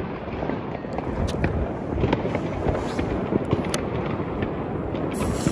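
Many fireworks and firecrackers going off at once: a continuous crackle with scattered sharp pops. Near the end a brighter hiss sets in as a lit firework fuse begins to fizz.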